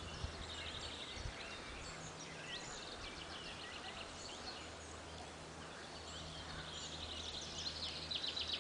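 Songbirds singing in woodland: repeated high, quick trills and short chirping phrases, loudest about a second in, around three seconds in and again near the end, over a steady low hum.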